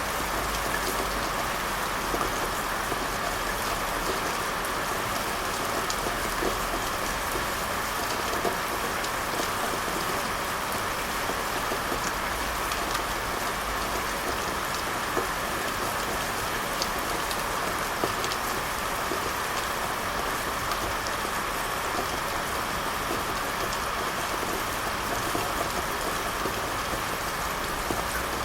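Steady rain falling, an even patter with many small drop ticks throughout.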